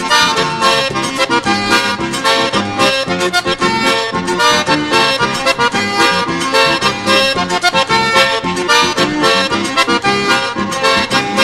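Instrumental passage of a fast gaúcho vanerão dance tune, led by accordion over a quick, even beat.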